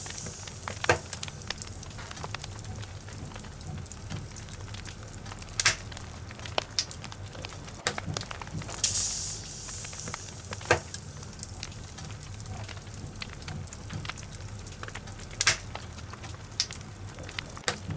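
Logs burning in a fireplace: a steady low rumble and hiss with scattered sharp crackles and pops, the loudest about a second in, near six, eleven and fifteen seconds and just before the end, and a brief hiss around nine seconds.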